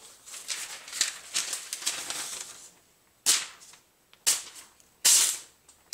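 A sharpened Spyderco Manix knife slicing phone book paper: crackly paper rustling for the first two and a half seconds, then four quick, sharp slicing swishes about a second apart.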